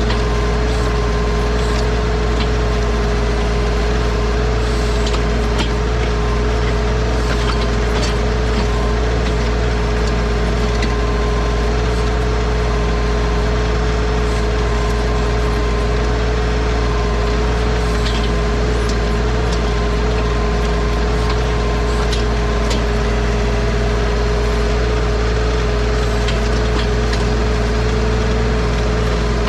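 Bad Boy 4035 compact tractor's diesel engine running steadily at a constant speed while working the backhoe, with a steady whine over its hum. Scattered light clicks and knocks are heard over it.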